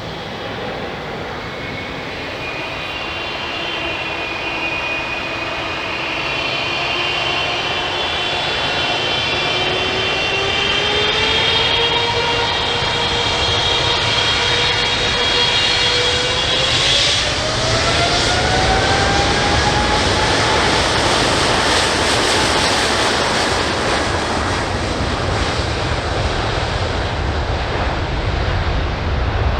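Boeing 777F's GE90 turbofan engines spooling up to takeoff power: a whine of several tones rising in pitch in steps while the rumble grows louder, then holding at a steady loud roar.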